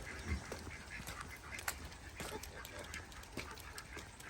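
Ducks quacking softly, among scattered light clicks and knocks.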